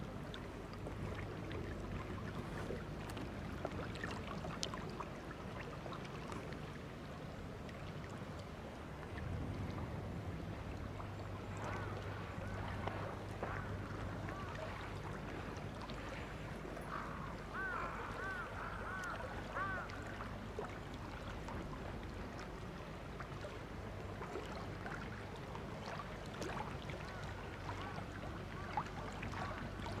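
Forest ambience with a steady low hum under a soft hiss, and a wild bird giving a quick run of about five short repeated calls a little past halfway, with fainter calls here and there.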